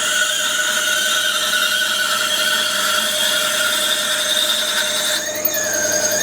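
Metal lathe running with a tapping drill boring straight into a brass bar: a steady, slightly wavering whine of several pitches over a hiss, which dips briefly about five seconds in.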